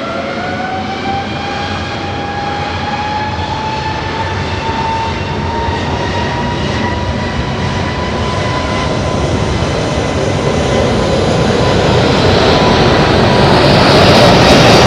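Airbus A321neo's Pratt & Whitney PW1100G geared turbofan engines spooling up for takeoff. A whine rises in pitch over the first couple of seconds and then holds steady, while the engine rush grows steadily louder toward the end.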